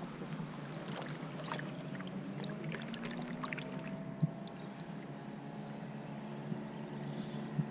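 Kayak paddling: paddle strokes through the water with small drips and splashes, and one sharp knock about four seconds in. A faint low hum slowly rising in pitch runs underneath.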